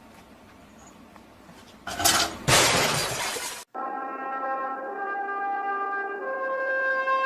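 A loud crash with a noisy rush lasting about a second and a half, like something breaking, which cuts off abruptly; then music with held brass notes follows.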